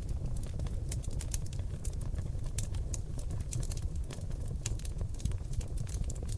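Wood fire of oak logs burning in a fireplace: a steady low rumble of the flames with frequent sharp, irregular crackles and pops, several a second.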